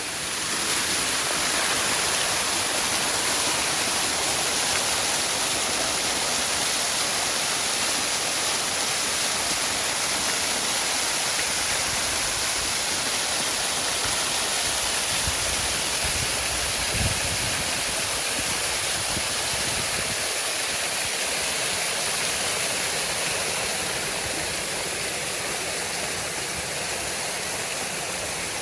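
Waterfall: a steady, continuous rush of falling water, strongest in the upper range, with a few low thuds about halfway through.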